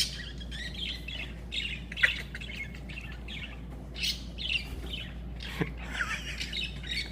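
Birds chirping: many short calls one after another, with a sharp click about two seconds in and another a little past five seconds.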